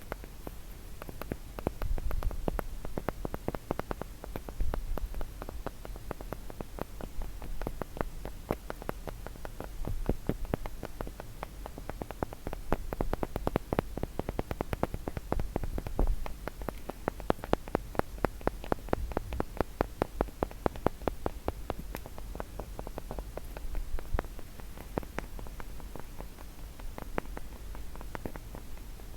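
Fingers tapping quickly on a wooden block, in rapid runs of sharp knocks. In the middle the taps turn into a fast, even patter.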